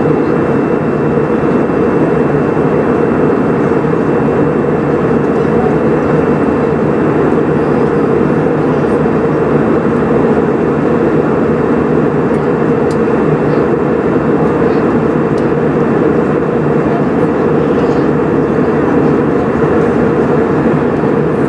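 Steady cabin noise of an Airbus A320 in flight: an even rumble of engines and airflow, with a faint, constant high whine on top.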